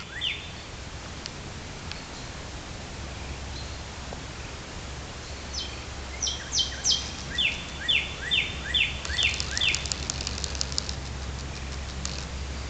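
Songbirds calling: a quick series of about seven downward-sliding chirps in the middle, with higher short notes before them and a fast high trill just after, over a steady low rumble.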